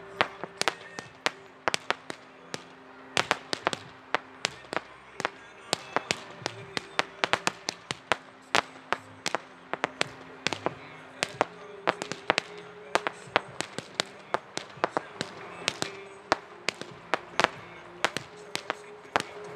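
Weco consumer fireworks going off in a rapid, irregular string of sharp bangs, several a second.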